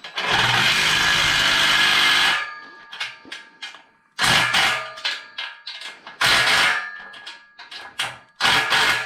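Handheld power driver ('gun') running bolts into the frame: one long run of about two seconds near the start, then three short bursts, with light metallic clinks between.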